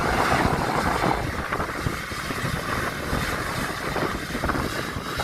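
Airbus A330-900 jet engines heard as a steady rumble and roar, with wind buffeting the microphone.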